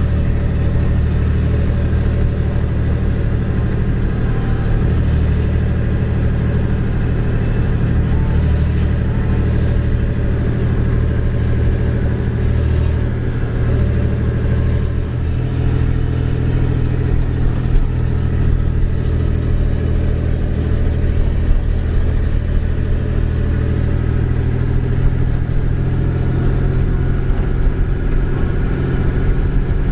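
Small two-stroke moped engine running steadily at cruising speed, heard from on board, with a slight change in its note about halfway through.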